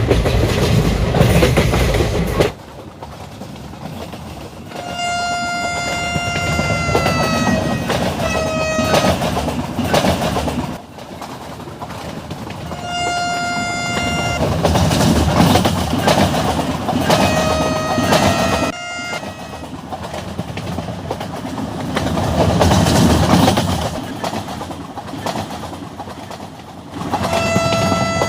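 Vande Bharat Express train running at speed with the rumble and clatter of wheels on rail, its horn sounding several times in long steady blasts, some dropping in pitch at their end. The sound changes abruptly a few times.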